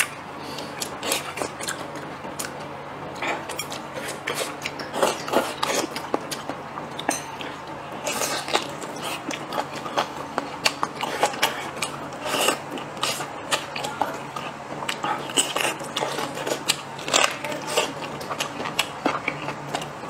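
Close-miked chewing of braised pork knuckle: wet, sticky mouth sounds with many irregular small clicks and crackles.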